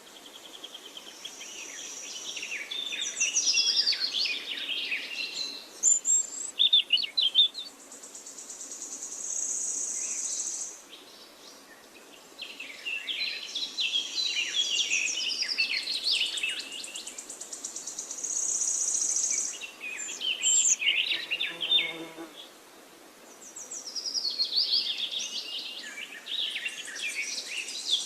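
Songbirds chirping and twittering in quick, overlapping phrases, with a high, steady insect buzz that comes and goes in stretches of a few seconds.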